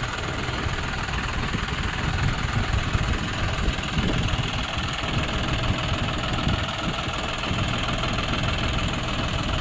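John Deere 5105 tractor's three-cylinder diesel engine running steadily at an even speed.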